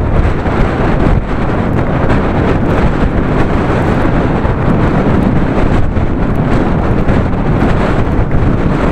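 Very heavy wind buffeting the microphone: a loud, continuous rushing rumble with no let-up.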